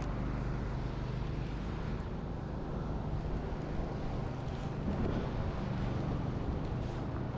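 Steady street noise: a low engine rumble from traffic, with wind noise on the microphone.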